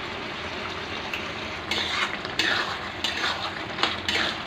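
Ridge gourd curry sizzling quietly in a kadai. From a little under halfway, a spoon starts stirring it, scraping against the pan in repeated strokes.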